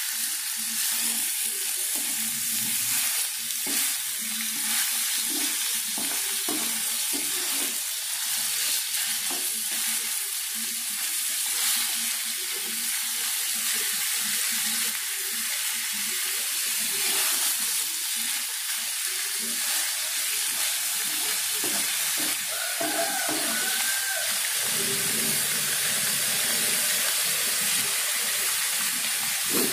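Rabbit meat and chillies sizzling in a hot coated wok as a wooden spatula stirs and scrapes through them: a steady frying hiss under irregular scraping strokes. The stirring stops about five seconds before the end, leaving the sizzle alone.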